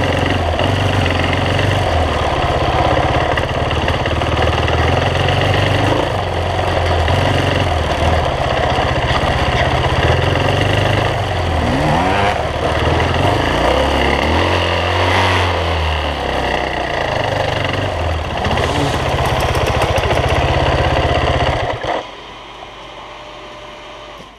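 Dirt bike engine running, heard from a camera on the bike, its revs rising and falling as the bike rides a rough trail. About two seconds before the end the engine stops and the sound drops away.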